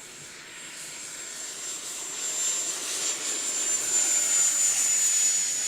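Electric ducted fan of an FMS F-18F 70mm EDF model jet at full throttle on its take-off run: a steady high-pitched whine over a turbine-like rush from its many-bladed fan, growing louder over the first few seconds and easing slightly near the end.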